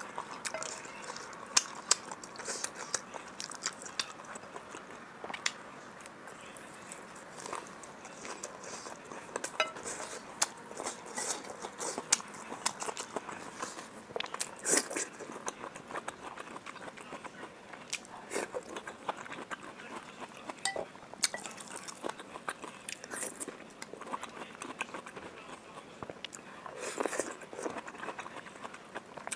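Close-miked eating sounds: wet chewing and lip smacks as a sauce-covered meatball and then a whole egg yolk are eaten, with occasional light clicks of chopsticks against a ceramic bowl.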